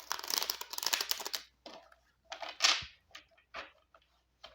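A deck of tarot cards being shuffled by hand: a dense run of papery riffling and rustling, then several short, separate card slaps and shuffles.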